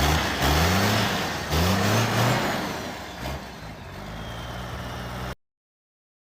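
Cummins diesel truck engine with an oversized HX40 turbo, wastegate welded shut, idling and then free-revved twice in quick blips. A turbo whistle rises with the revs and winds down as the engine falls back toward idle. The sound cuts off abruptly about five seconds in.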